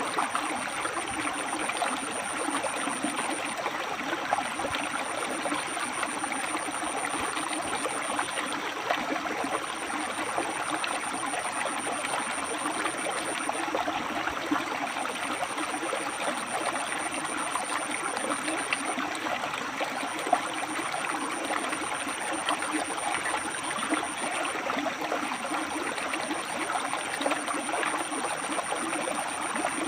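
River water flowing steadily over and between rocks, an even wash of moving water with no pauses.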